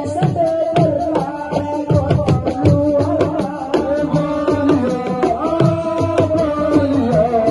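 Live siko (assiko) band music: hand drums beat a fast, dense rhythm under a held, wavering melody line.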